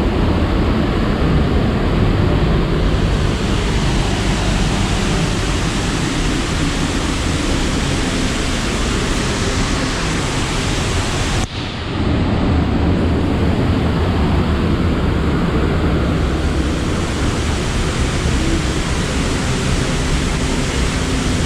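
Steady, loud rush of a waterfall pouring, with a brief break about halfway through.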